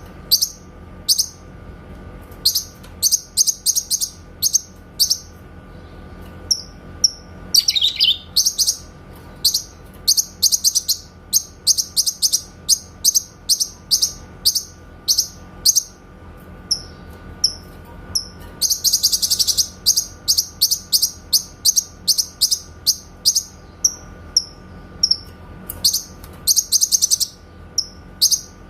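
Cucak kinoy singing clear, rapid-fire runs of short, sharp, high notes, the 'tembakan' shooting call, broken by pauses and single or paired chirps. A faint steady hum runs underneath.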